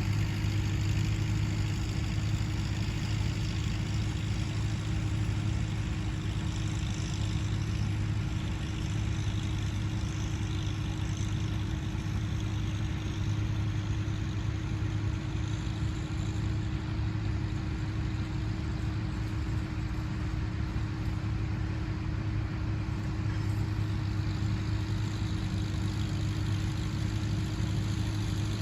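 Tractor engine running steadily at constant speed: an even, low drone with no change in pitch.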